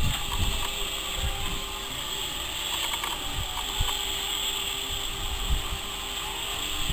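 Mechanical clicking and rattling over a steady hum, with a few low thumps.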